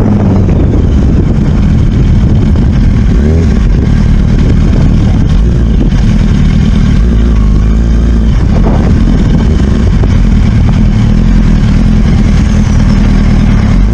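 A motor vehicle's engine running loud and steady under way, with its pitch rising and falling briefly a few seconds in and again near the middle.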